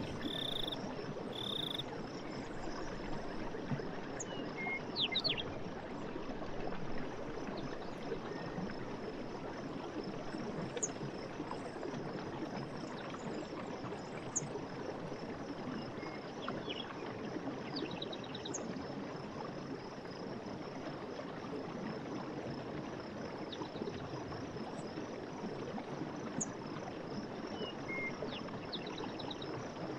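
Night forest ambience: a steady chorus of insects, with scattered short chirps and calls from frogs or insects, over a steady rushing noise.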